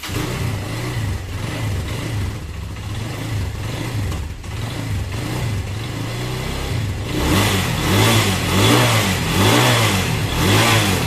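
Honda XLR200 motorcycle engine running. It is revved repeatedly in the second half, rising and falling about once a second.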